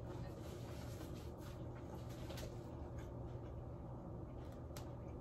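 Faint chewing from a person eating a sandwich, with a few soft clicks, over a steady low hum.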